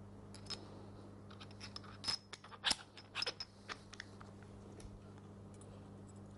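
Small metal parts of a Bosch GSH 5 demolition hammer clicking and clinking together as they are fitted by hand during reassembly: a scattered run of sharp clicks, the loudest about two and a half seconds in.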